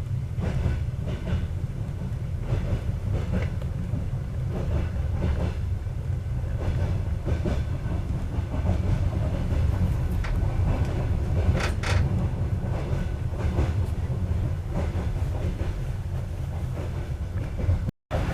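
Passenger train running, heard from inside the carriage: a steady low rumble with irregular knocks and clacks of the wheels over the rails. It cuts out briefly near the end.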